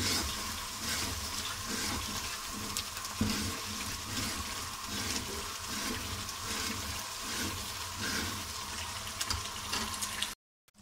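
Malai and flour bubbling and frying in separating ghee in an aluminium pan, while a metal spatula keeps stirring and scraping through the mixture. The sound cuts off abruptly just before the end.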